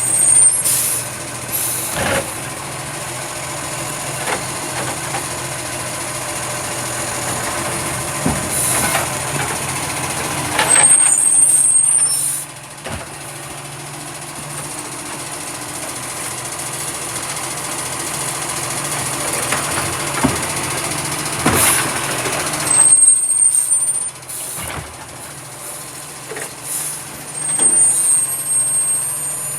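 Recycling truck working at the kerb: its engine running steadily, with loud bursts of hiss about eleven and twenty-two seconds in and a short high squeal a few times.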